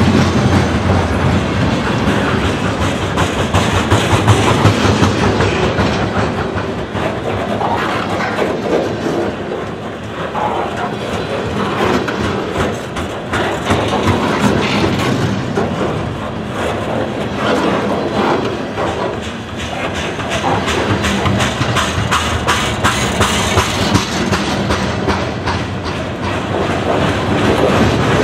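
Freight cars (boxcars and lumber-loaded centerbeam flatcars) rolling past close by, their steel wheels clacking and rumbling over the rails in a steady clatter.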